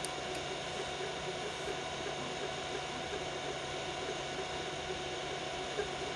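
Biqu BX 3D printer printing at 120 mm/s: steady whir of its cooling fans, with short stepper-motor tones coming and going as the print head moves.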